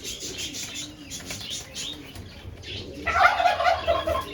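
Pigeons in a loft: wings flapping in quick repeated strokes, with low cooing underneath. About three seconds in comes a louder flurry of wing noise lasting about a second.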